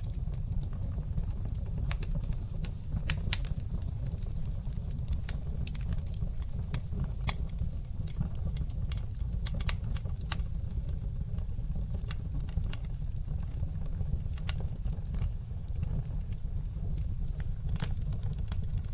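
Wood fire burning in a fireplace, crackling with sharp, irregular pops and snaps over a steady low rumble.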